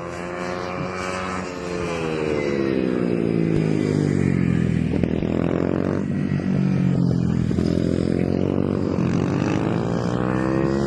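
110cc mini GP race motorcycles running around the track, their engine pitch dropping off and climbing again several times as the riders ease off and accelerate. The engines get louder about two seconds in.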